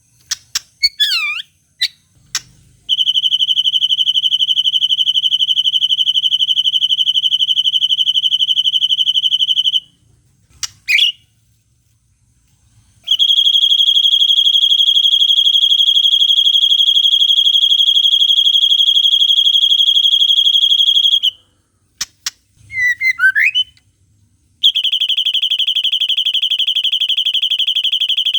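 White-rumped shama (murai batu) song made of long, steady, high buzzing trills in the style of the cililin, each held for several seconds. Between the trills come short swooping whistled notes: near the start, about eleven seconds in, and about twenty-three seconds in.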